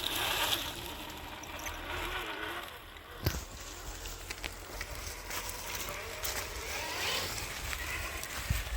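Traxxas TRX6 Hauler 1:10 RC crawler's electric motor and drivetrain whining, the pitch wavering up and down with the throttle, over a steady hiss, with a sharp knock about three seconds in.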